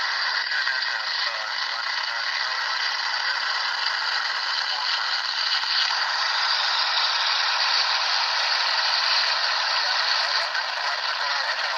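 Steady FM radio hiss from a Yaesu VX-6R handheld receiver with its squelch open, the static of a weak SO-50 satellite downlink with no voice coming through.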